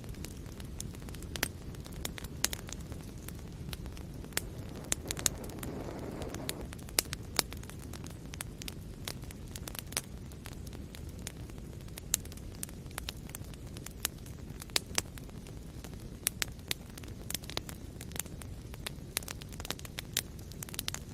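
Wood fire burning in a fireplace, crackling with irregular sharp pops and snaps over a steady low rumble of the flames, with a brief soft hissing swell about six seconds in.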